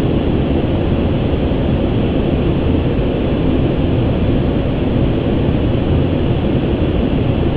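Steady rushing noise on an Airbus A350 flight deck in flight, airflow and air-conditioning noise heaviest in the low end, with no change or distinct events.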